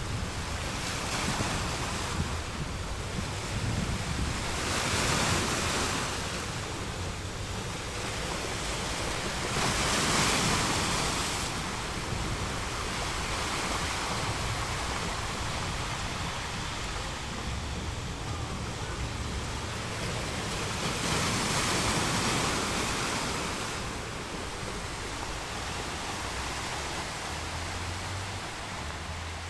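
Small waves breaking and washing onto the shore, a steady wash of surf that swells and ebbs every few seconds as each wave comes in.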